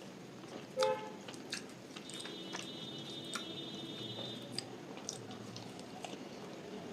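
Close-miked chewing of luchi with vegetable curry: soft wet mouth sounds with scattered sharp clicks. A faint steady high tone sounds in the background for about two seconds in the middle.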